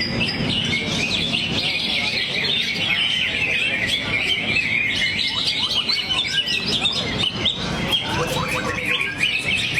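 Cucak hijau (greater green leafbird) singing a fast, continuous stream of rapid chirps and trills, pouring out its repertoire of learned song phrases without a break.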